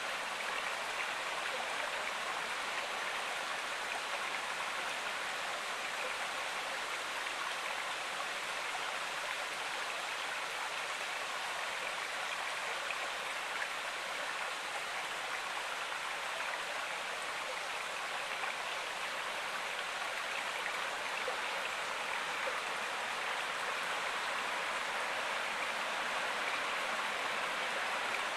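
Flowing stream water rushing steadily, an even splashing hiss with no break or change.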